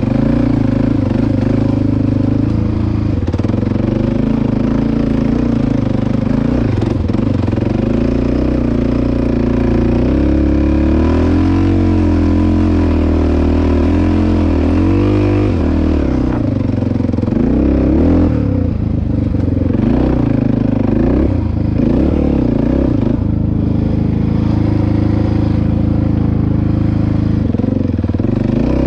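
Dirt bike engine running while riding, its revs rising and falling again and again with the throttle.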